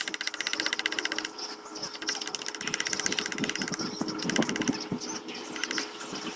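A small power tool running with a fast, even chatter, with irregular knocks and scraping as it works the wood about halfway through.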